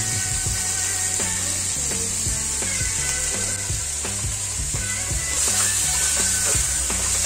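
Crabs frying in hot oil in a wok: a steady sizzle, with short knocks and scrapes of a wooden spatula stirring them in the later seconds. Background music with a low bass line runs underneath.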